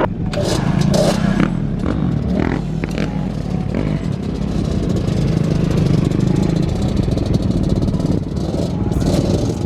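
Car engine running loud through its exhaust, a rough rapid pulsing that holds steady throughout.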